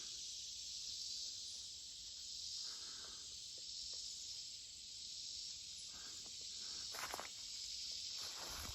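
A steady, high-pitched chorus of insects such as crickets, with a few faint footsteps rustling through grass.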